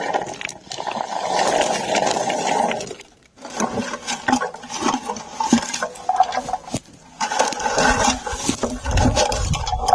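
Lingonberries being stripped by hand from low forest bushes: leaves rustling and berries pattering and clicking as they drop into a picking bucket, in irregular bursts with a short pause about three seconds in. A low rumble comes in near the end.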